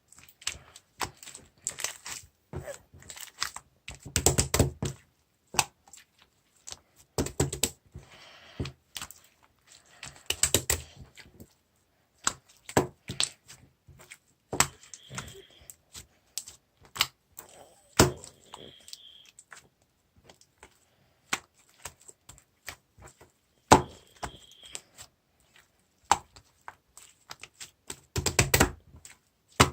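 Slime being played with by hand: an irregular run of sticky clicks and small air-bubble pops, with louder bursts of squishing now and then.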